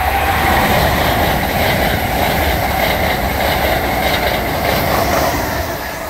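Amtrak Acela Express electric high-speed trainset passing close by at speed: a loud, steady rush of train noise that eases off near the end as it moves away.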